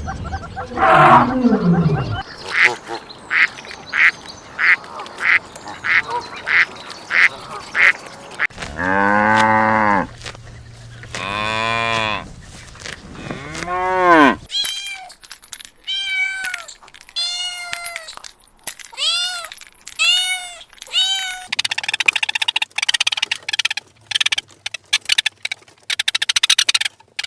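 A succession of different animal calls, one kind after another: a falling call, a run of about eight short evenly spaced calls, three long arching calls, then a quick series of high rising-and-falling calls, and a noisy stretch near the end.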